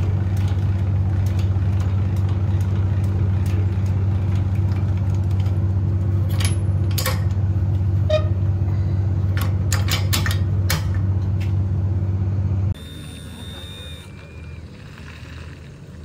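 Pickup truck engine running steadily at idle, with sharp metallic clicks and clanks over it in the middle. The engine sound cuts off suddenly near the end, leaving a much quieter background.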